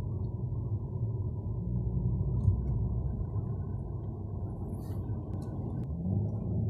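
A 2017 BMW M140i's turbocharged 3.0-litre inline-six driving, heard from inside the cabin as a steady low rumble of engine and road noise. The engine note rises near the end.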